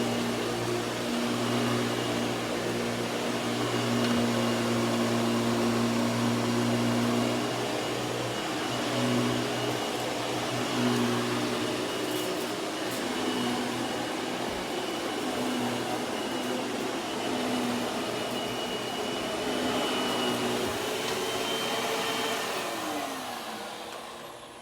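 Hoover WindTunnel 2 upright vacuum cleaner running steadily while vacuuming carpet, a motor hum over the rush of air. Near the end it is switched off and the motor's pitch falls as it spins down.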